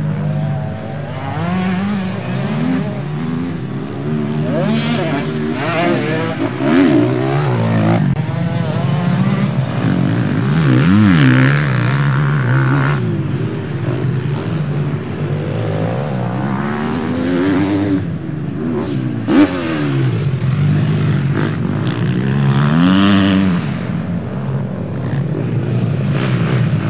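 Several motocross bikes racing, their engines revving up and down over one another as they work around the track. There is one brief sharp knock about two-thirds of the way through.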